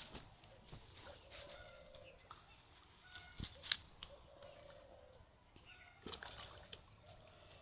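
Faint sloshing and splashing of pond water, with a few short bird calls and scattered clicks; the sharpest splash comes a little past the middle.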